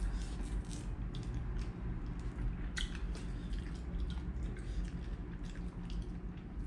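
Close-up eating sounds: chewing with small, irregular wet clicks and squishes as a cooked prawn is peeled by hand and eaten.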